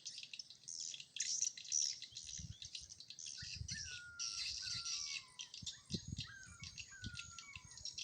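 Swiftlets chirping in a dense, high twitter. From about 3 s in, a run of falling whistles repeats roughly once a second.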